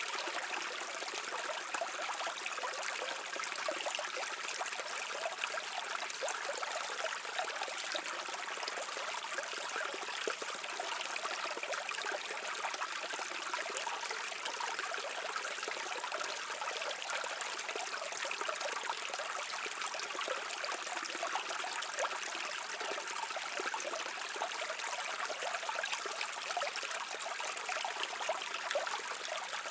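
A shallow brook running over stones, a steady babbling and trickling of water with many small splashes.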